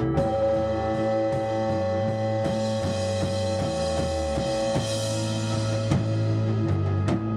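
A live band playing, with a drum kit beating out a steady rhythm under sustained pitched instruments and bass notes.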